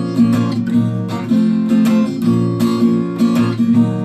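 Acoustic guitar strummed in a steady rhythm, chords only with no voice, between sung lines.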